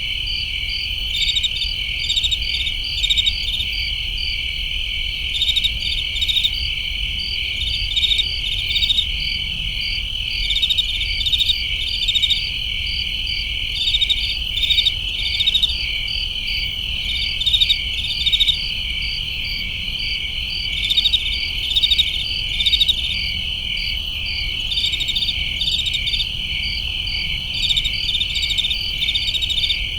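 Crickets chirping: a continuous high trill with groups of sharper pulsed chirps layered over it about once a second, over a faint low rumble.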